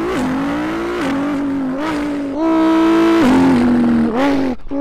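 A man imitating a Pagani Huayra supercar engine with his voice. The engine-like drone climbs in pitch and drops back several times, like a car working up through the gears, with a short break near the end.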